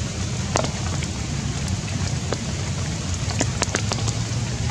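Steady rain falling, with scattered sharp ticks of individual drops hitting leaves and ground over a low rumble.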